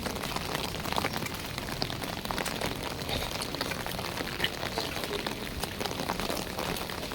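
Heavy monsoon rain pouring steadily, with many sharp individual drop hits pattering through the even hiss.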